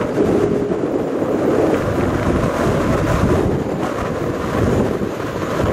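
NEWAG Griffin EU160 electric locomotive hauling passenger coaches, approaching along the track with a steady rumble, mixed with wind buffeting the microphone.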